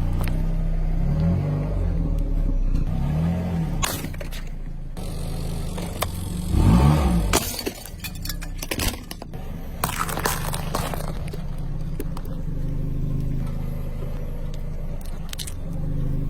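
A car engine running, its pitch rising and falling several times as the car creeps forward, with sharp cracks and crunches as objects break under the tyres.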